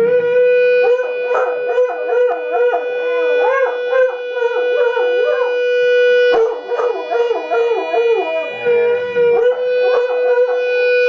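A dog howling in wavering, rising-and-falling calls over one steady held note, with a break about six seconds in.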